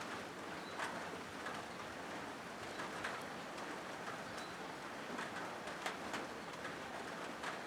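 Rain falling steadily on a corrugated zinc roof, a constant patter with scattered louder drop strikes.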